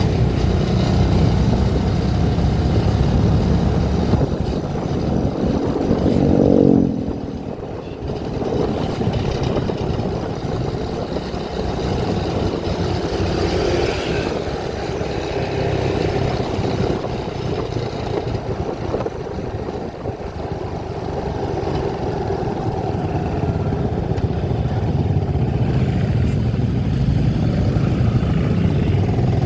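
A vehicle engine running while driving. It climbs in pitch for the first seven seconds or so, then drops away suddenly as the throttle eases, and keeps running steadily under road noise.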